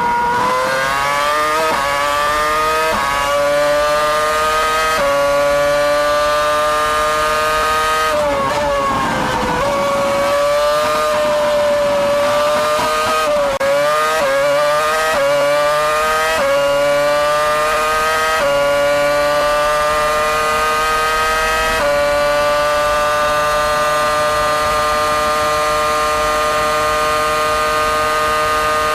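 Ferrari 248 F1's 2.4-litre V8 engine heard onboard at very high revs. Its pitch climbs and snaps down with quick upshifts, falls through downshifts about a third of the way in and again around the middle, then holds a steady high note for the last several seconds.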